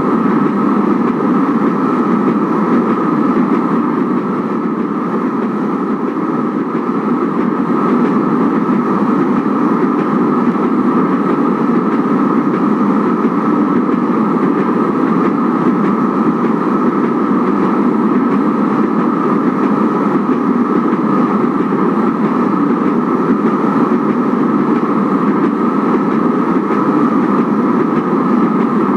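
Kinki Sharyo/Nippon Sharyo 1200-series light rail train running steadily along the track, giving an even rumble and rail noise with no breaks or separate knocks.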